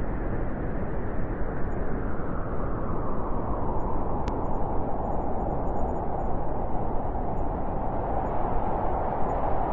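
Blizzard wind blowing steadily, a dense rushing noise with a howling band that grows stronger in the second half. A faint click about four seconds in.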